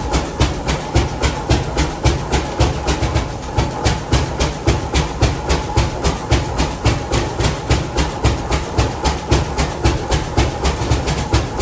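An old engine running steadily, its exhaust beating in an even rhythm of about three to four beats a second.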